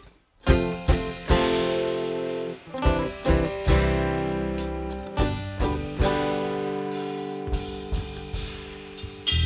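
Live acoustic string band (acoustic guitar, upright bass, mandolin, fiddle, banjo, drums) playing an instrumental passage without vocals. The band stops for a split second at the very start, then comes back in with plucked notes and chords ringing out.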